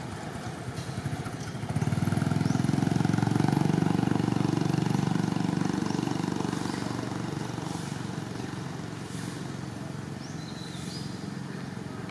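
A motor vehicle passing on a road: a low engine rumble swells about two seconds in, then slowly fades away.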